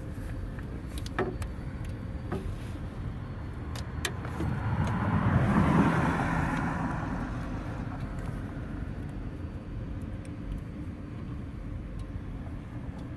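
A passing car, its sound swelling to a peak about six seconds in and then fading, over a steady low hum. A few sharp clicks come in the first four seconds.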